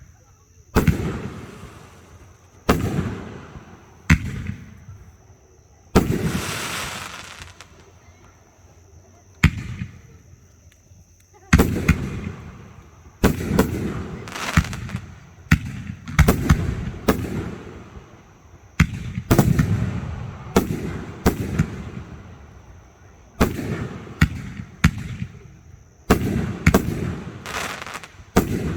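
Fireworks bursting overhead: sharp booms, each trailing off, a few seconds apart at first and coming in quick volleys from about halfway on. A hissing crackle comes about six seconds in.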